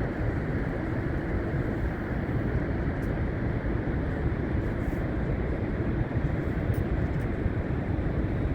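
Steady roar of Niagara Falls: a dense, even rush of falling water, strongest in the low and middle range.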